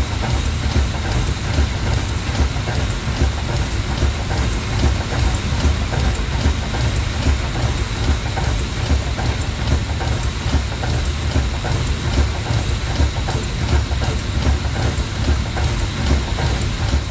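Train running at speed through heavy rain: a steady rushing noise of rain and wind over a heavy low rumble, with some rail clatter.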